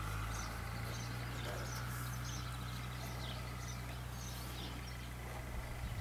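Birds chirping here and there over a steady low hum.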